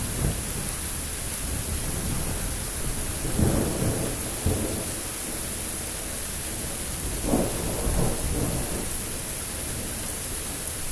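Thunder rumbling over steady rain, with two louder swells of thunder, about three and a half seconds in and again near eight seconds.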